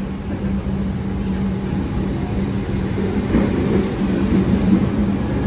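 Train at a station platform, a steady low rumble with a constant droning hum.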